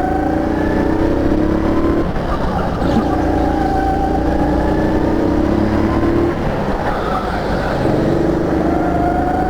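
Rental go-kart engine heard on board at full racing pace: its pitch rises as it accelerates, drops off sharply about two seconds in and again about six seconds in as the throttle is lifted for corners, then climbs again near the end.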